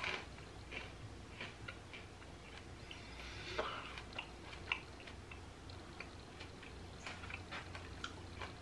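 A person chewing a bite of battered, deep-fried sea anemone with the mouth closed: faint, irregular crunching and clicking.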